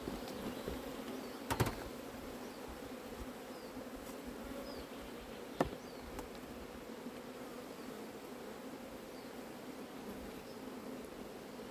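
Honeybee colony buzzing steadily from an open hive, a low even hum, with two short sharp knocks, one about one and a half seconds in and a second, louder one about five and a half seconds in.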